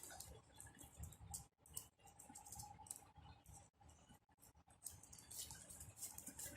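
Faint, irregular clicks and light taps.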